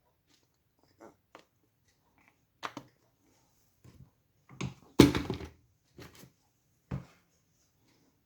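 Hands working with a small bolt and tools on the gearbox at the bench, applying thread-locker: scattered clicks and knocks of metal parts being picked up and set down, the loudest about five seconds in.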